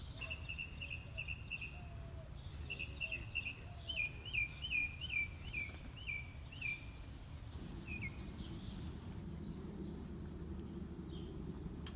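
A songbird calling: a quick run of short chirps, then a series of about seven down-slurred whistled notes that die away. Under it is a steady low background rumble that grows louder after the song stops.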